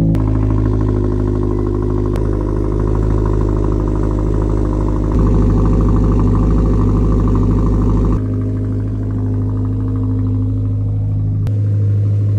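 Subaru WRX's turbocharged flat-four engine idling steadily just after starting, its idle note shifting slightly a couple of times.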